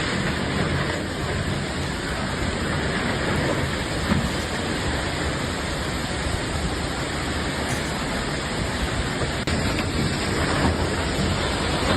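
Steady rush of strong storm wind, a dense noise with no let-up.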